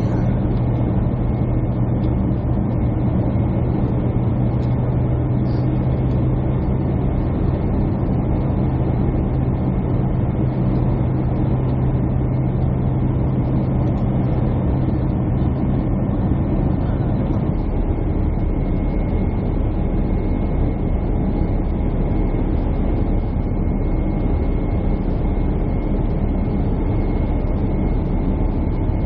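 Airliner cabin noise heard from a window seat: a steady roar of jet engines and airflow, with a low droning hum that stops about seventeen seconds in.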